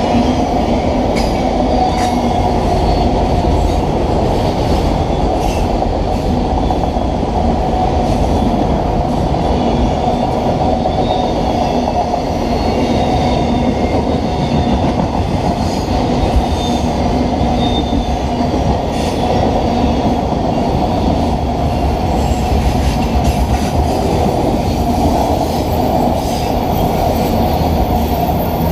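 Freight train of autorack cars rolling past: a loud, steady rumble of steel wheels on rail, with occasional clicks and faint high-pitched wheel squeal.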